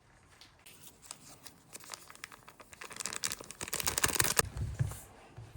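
Crinkling and rustling of packaging being handled, a dense crackle of fine clicks that builds up and is loudest about three to four seconds in. A few low thuds follow near the end.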